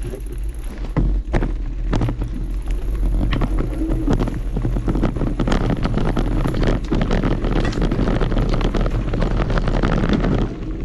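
Mountain bike being ridden over a rough trail: a dense, continuous clatter of knocks and rattles from the tyres and frame, over a steady rumble of wind buffeting the microphone.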